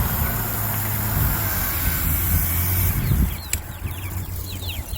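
A low rumble with hiss that drops away about three seconds in, followed by a run of short, high, falling peeps from baby chicks.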